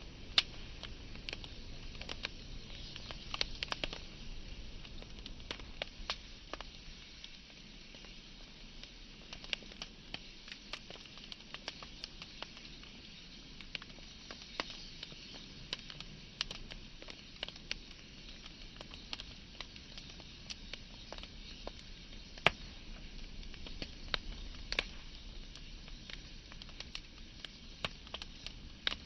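Wood fire burning, crackling with scattered sharp pops over a steady hiss, two louder pops about half a second in and near the two-thirds mark.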